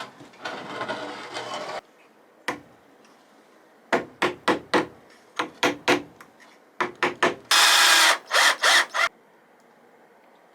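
Hand work with tools on wood: a rasping stretch at the start, then runs of sharp knocks, about four a second, with a short loud burst of noise near the end, before it stops.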